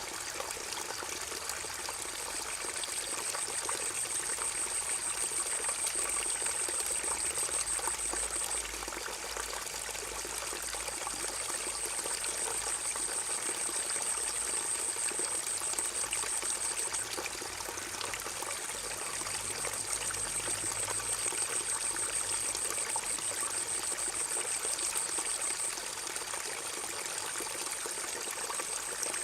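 Forest river running: a steady rush and trickle of flowing water. Over it, a high, thin buzz comes and goes in spells of several seconds.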